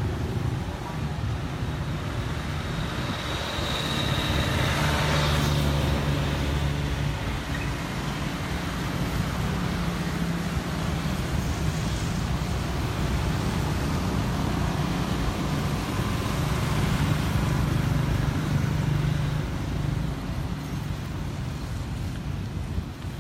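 Road traffic with car engines running and vehicles passing; one goes by louder about five seconds in.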